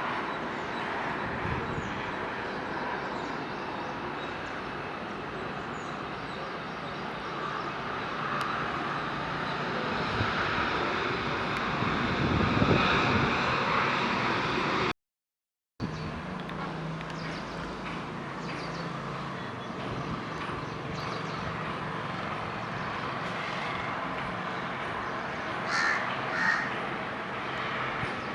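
Jet airliner noise, a broad rushing sound that swells to its loudest about two-thirds of the way through the first half, cut off briefly by an edit. Then a steadier, lower engine hum, with a crow cawing twice near the end.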